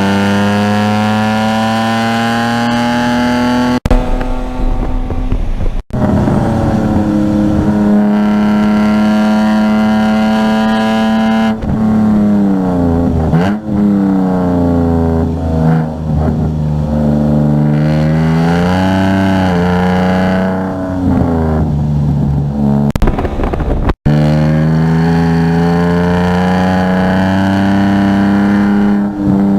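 Car engine driven hard on a race track, held at high revs, its pitch dipping and climbing several times in the middle as it slows and accelerates again. It cuts out sharply for an instant three times, about four, six and twenty-four seconds in.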